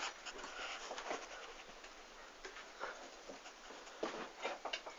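Faint scattered clicks and light knocks, like objects being handled and moved, with a sharp click at the very start.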